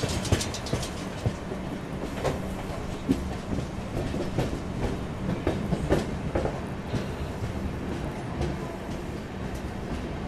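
Passenger train running: a steady rumble with irregular wheel clacks over the rail joints, bunched about two seconds in and again around six seconds.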